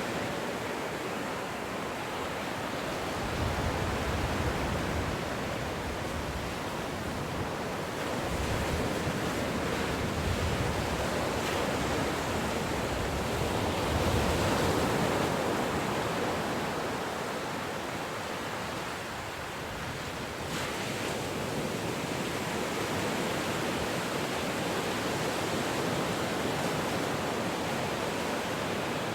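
Ocean waves washing in, a steady hiss of surf that swells and eases over several seconds.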